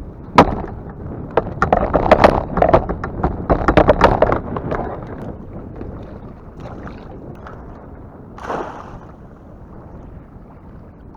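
Knocking and clatter from gear handled aboard a kayak: a fast, irregular run of sharp knocks over the first few seconds, then a single swish about eight seconds in.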